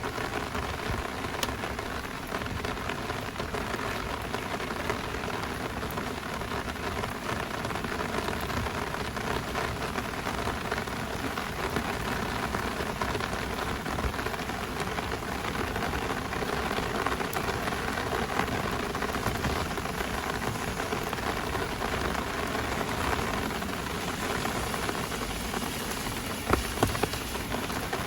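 Heavy rain falling in a steady downpour. Near the end come a few sharp, louder ticks.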